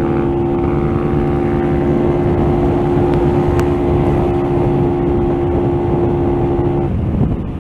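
Motorcycle engine running at a steady speed with wind rushing over the microphone while riding. The steady engine note drops away near the end.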